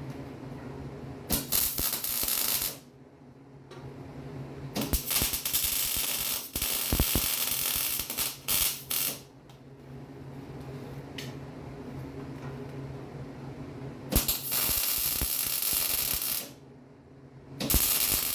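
Electric welding arc crackling in four bursts of one to four seconds each, with gaps between beads, over a steady low hum.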